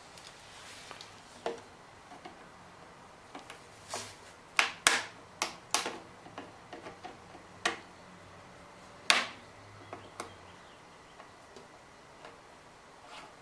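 Irregular sharp clicks and light metallic knocks of hand tools and parts being handled while working on the mower's fuel line, the loudest about nine seconds in.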